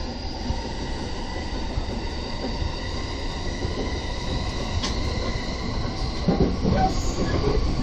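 JR Keiyo Line commuter train running on the rails, heard from inside the car: a steady rumble of wheels and running gear with a thin, steady high whine, slowly getting louder as the train gathers speed. A burst of louder clatter comes about six seconds in.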